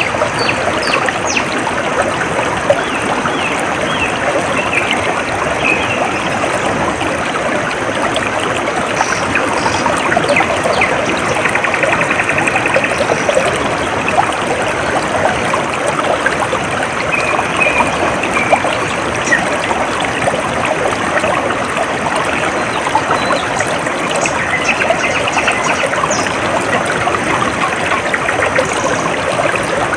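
Stream water trickling and flowing steadily, with a few faint, brief high bird calls now and then.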